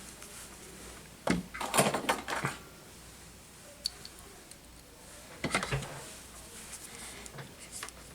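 Small tools and parts being picked up, handled and set down on a workbench: two bursts of clicks and clatters, one about a second in and one past the middle, a single tick between them, and a few lighter ticks near the end.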